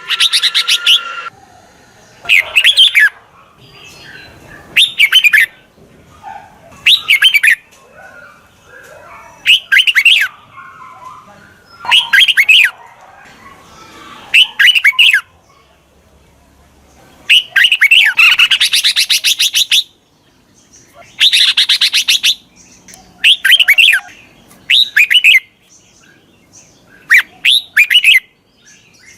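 Red-whiskered bulbul calls used as a lure call for wild bulbuls: short bursts of quick, bending chirps repeated every two to three seconds, with a couple of longer chattering phrases about two-thirds of the way through.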